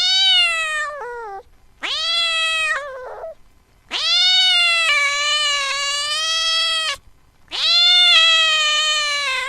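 A cat meowing: four long, drawn-out meows, each rising at the start. The third meow is the longest, about three seconds.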